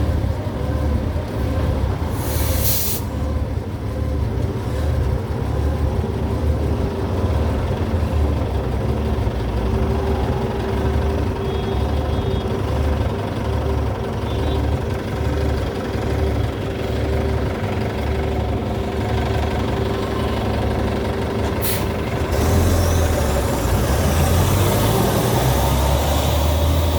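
City bus engine running steadily, with two short hisses of released air from the air brakes, one near the start and one about three-quarters of the way through. The engine grows louder after the second hiss.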